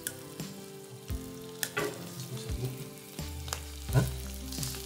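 White rice dropping into a hot wok of frying sauce, sizzling, with a few sharp clicks along the way.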